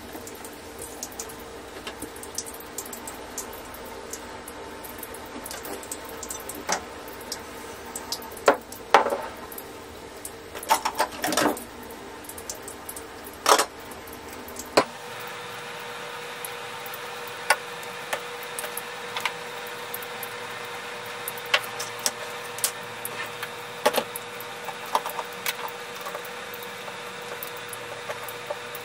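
Scattered clicks and knocks of household items being handled during cleaning, over a steady background hum; the hum changes abruptly about fifteen seconds in.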